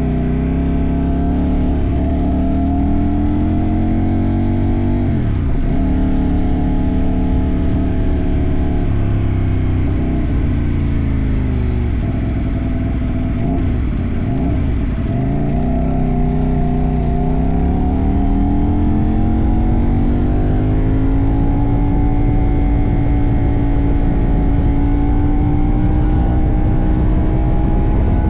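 CFMoto 800NK's parallel-twin engine under way, pulling up through the revs, with a sudden drop in pitch about five seconds in as the throttle is eased or a gear changes. It eases off and picks up again a few times near the middle, then climbs and holds a steady pitch at cruise, over low wind rumble.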